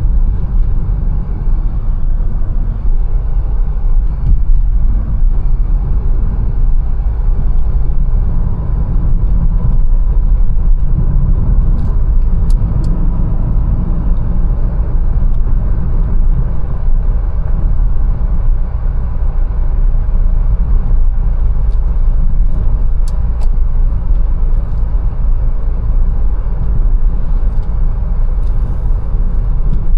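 Mercedes-Benz A180 driving on city streets: a steady low engine and road rumble. A few short, light ticks come about twelve seconds in and again about two-thirds of the way through.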